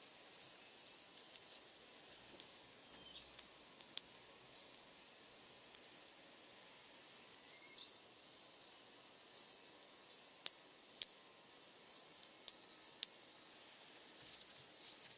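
Wood bonfire crackling: a steady hiss broken by sharp, irregular pops, with a few short high squeaks.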